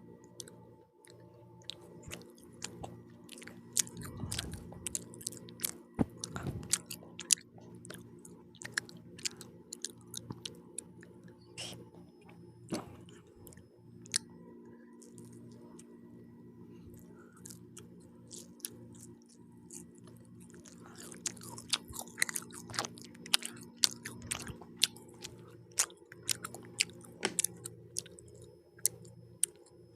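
Person chewing pizza: a run of sharp mouth clicks and bites, sparser in the middle and densest in the last third.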